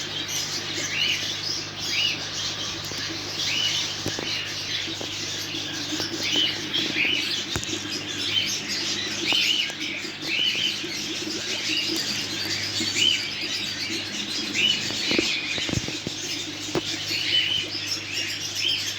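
Many small caged birds chirping, short repeated calls from several birds at once, over a steady low hum.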